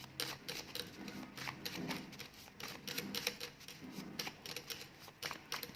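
Paper word cards being handled on a table: a run of quick, irregular clicks and snaps as the cards are shuffled and turned.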